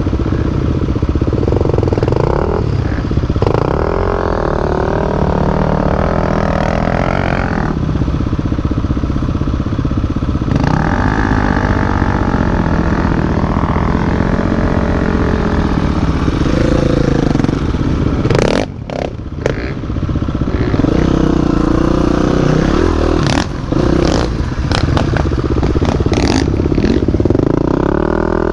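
Dirt bike engine being ridden on a trail, revving up and easing off again and again, over a steady rumble with clatter from the bike. The engine drops off briefly about two-thirds of the way through, and a few sharp knocks come in that moment.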